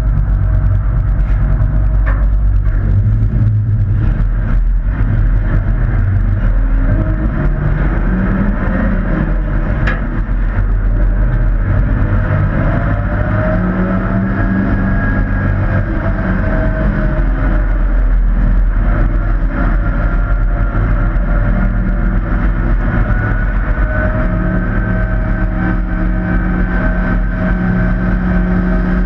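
Several hobby-class stock trucks running together on a race track, their engines loud and steady, with pitches rising and falling as they accelerate and lift through the turns.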